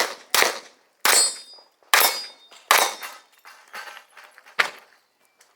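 Handgun shots at an irregular pace, about six loud ones and a few fainter cracks, some followed by a short metallic ring of hit steel targets.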